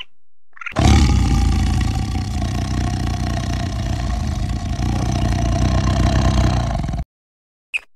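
Tiger growling: one long, low growl of about six seconds that stops abruptly.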